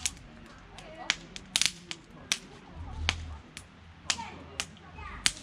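Burning firewood crackling and popping: sharp, irregular snaps, about ten over a few seconds.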